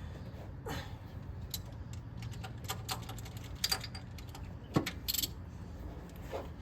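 Scattered light metallic clicks and clinks of hand tools and spark plugs being handled in an engine bay, a handful of separate taps spread irregularly through the few seconds.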